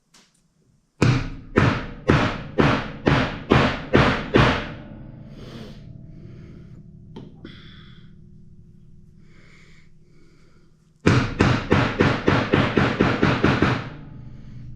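Rubber mallet striking a part to seat it in a tractor's hydraulic lift cylinder: about eight blows at roughly two a second, then after a pause a quicker run of about a dozen lighter taps.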